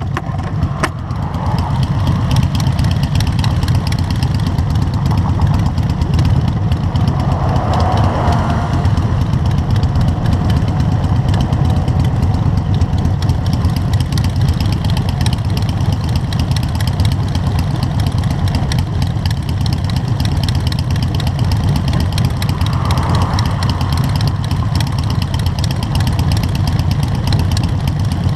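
Motorcycle engines running steadily at idle.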